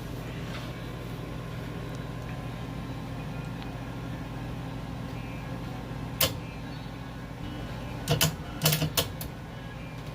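New gas-fired furnace running steadily through its pre-ignition warm-up as the hot surface igniter heats, with a low hum. A sharp click comes about six seconds in, then a quick run of four or five clicks near the end.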